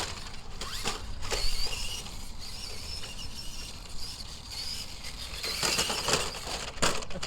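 Electric motor and gears of a radio-controlled Tamiya monster truck whining, the pitch rising and falling as it is driven. A few sharp knocks and clatters come over the top.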